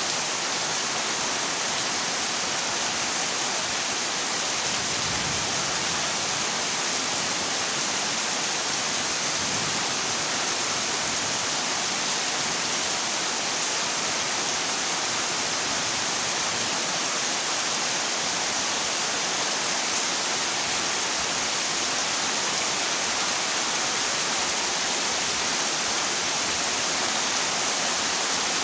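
Heavy rain falling steadily on a corrugated zinc roof, an even, unbroken hiss.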